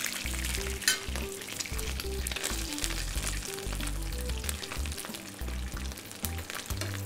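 Veal sweetbread sizzling in clarified butter in a frying pan, a dense hiss full of small pops, while a metal spoon bastes it with the hot fat. A sharp click about a second in.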